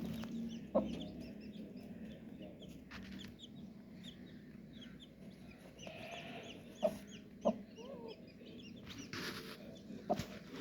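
Baby chicks peeping, many short high cheeps throughout, with a hen clucking a few times.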